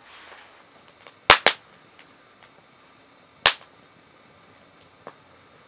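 Three sharp snaps or knocks over a quiet background: two in quick succession about a second in, and a single one about two seconds later.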